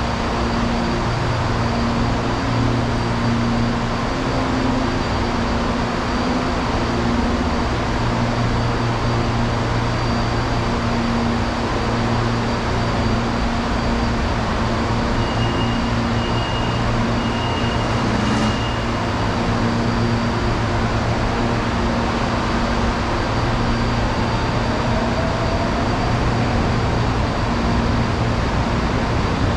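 Steady rumble and hum of an electric commuter train at a station platform, with one brief sharp sound about eighteen seconds in.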